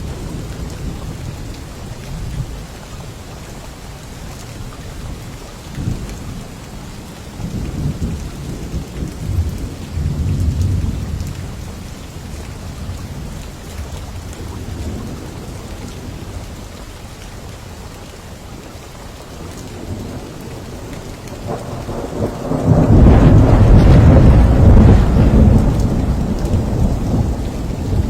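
Steady rain with thunder: low rumbles swell and fade in the first half, then a loud, long peal of thunder builds about three quarters of the way in and rolls on to the end.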